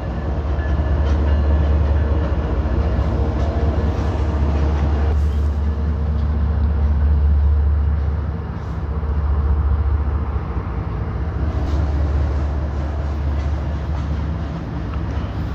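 Florida East Coast Railway freight train passing slowly through a road crossing, with a steady deep rumble as the diesel locomotives and then the container cars go by.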